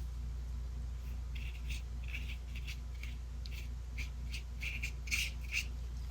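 Paintbrush dabbing and stroking on gesso-primed mixed media paper: a run of about ten short, scratchy brush strokes starting about a second in, over a steady low hum.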